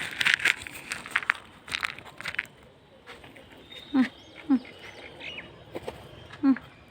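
A mynah bird calling: harsh, scratchy chatter in the first couple of seconds, then a few thin, high whistled notes.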